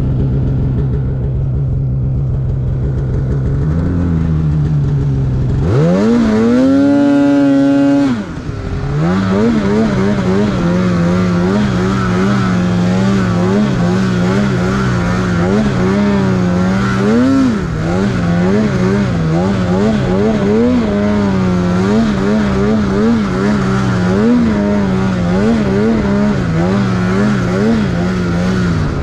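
Snowmobile engine running low and steady, then revving sharply about six seconds in and holding high for two seconds before dropping off. It then runs on at a steady, wavering pitch with short throttle rises and falls as the sled rides.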